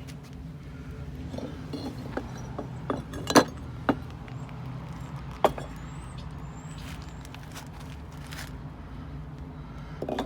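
A steady low hum with a series of sharp metallic clinks and knocks, the loudest about three and a half seconds in, and a dull thump near the end.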